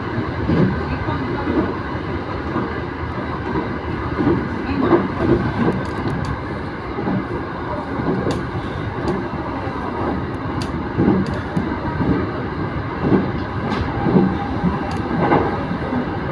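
Running noise of a JR Uchibo Line electric train heard from inside the car while under way: a steady rumble of wheels on rail, with irregular knocks and short clicks throughout.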